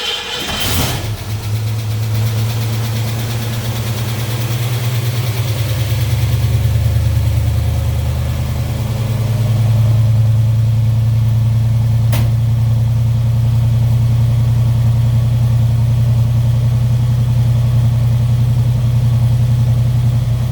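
1967 Ford Mustang engine catching under the starter less than a second in, then idling steadily on a cold start after sitting unused for weeks; it started right up after a couple of pumps of the gas pedal. A single sharp click sounds about twelve seconds in.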